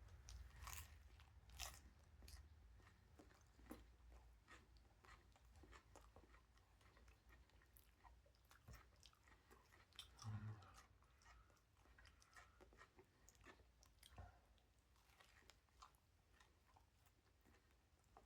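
Faint chewing of a mouthful of sandwich, with scattered soft wet clicks and crunches, and a short low hum about ten seconds in.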